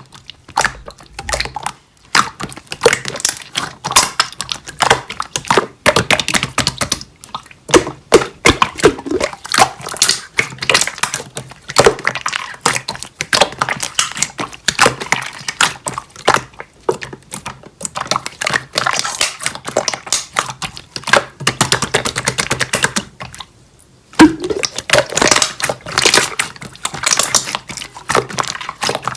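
Slime being squeezed and pressed by hand, making dense, rapid crackling clicks and pops. The clicking pauses briefly about three-quarters of the way through.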